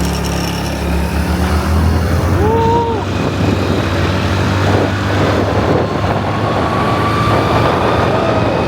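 Small motor scooter engine running while riding, with road and wind noise; a thin whine rises slowly in pitch in the second half.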